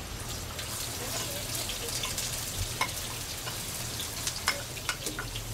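Noodles frying in hot oil in a pan: a steady sizzle with frequent sharp crackles and pops.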